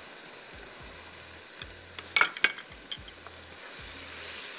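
Onions and tomatoes frying in oil in a pot, a steady sizzle that grows a little louder near the end, with a few sharp clicks of a utensil against the pot about two seconds in as the masala is stirred.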